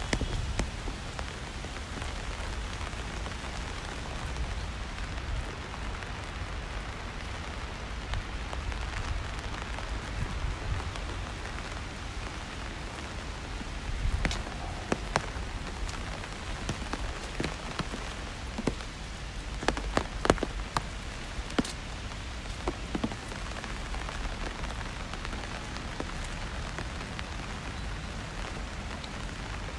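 Steady rain falling on a wet city street, an even hiss with a low rumble underneath. A run of sharp taps and drips stands out between about halfway and two-thirds of the way through.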